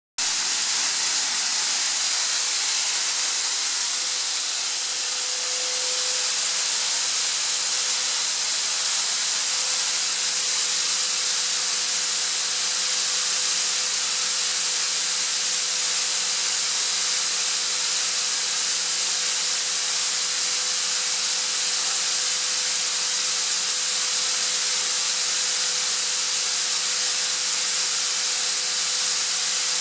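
Atlas Copco ZR200 oil-free rotary screw air compressor running: a steady, loud, high air hiss with a faint steady hum beneath it.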